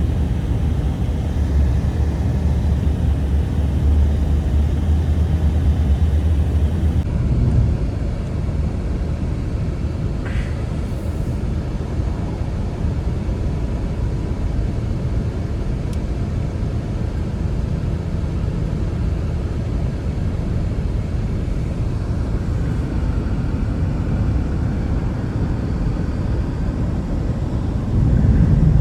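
Blizzard wind blowing hard: a steady, deep rumble with a rushing hiss above it, changing character about seven seconds in.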